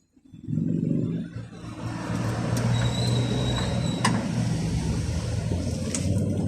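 A motor vehicle engine starts about half a second in and runs steadily, with a few sharp clicks over it.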